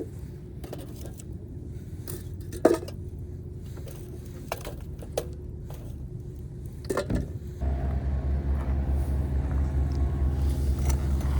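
A few sharp clinks and knocks of small hard objects, like camp gear or dishware being handled, then about two-thirds of the way in a steady engine hum starts abruptly and runs on.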